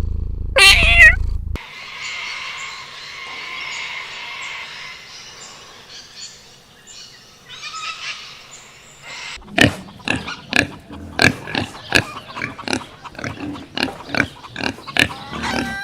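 An animal's short loud call about half a second in, then, after a cut, a rapid series of short animal calls about two a second through the second half.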